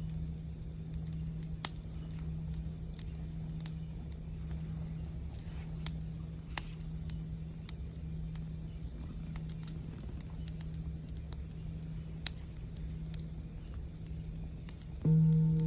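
Campfire crackling with scattered pops, two sharper ones about six and a half and twelve seconds in, over a steady low hum from a singing bowl's lingering tone. Near the end a singing bowl is struck and rings out loudly with several steady tones.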